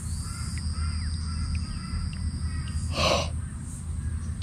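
Birds calling outdoors, with one short, loud, harsh crow-like caw about three seconds in, over a steady thin high whine that stops just before it.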